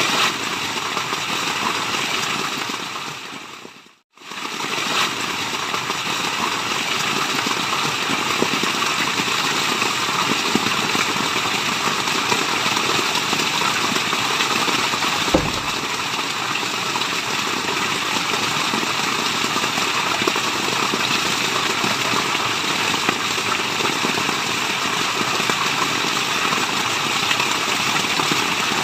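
Steady rushing of running water, an even white-noise wash. About four seconds in it fades out to nearly nothing and swells straight back.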